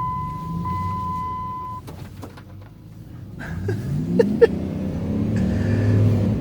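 A steady high seatbelt warning chime sounds and stops about two seconds in. The engine then revs up and holds high as the rear wheels spin in deep snow while the vehicle tries to rock free of a drift.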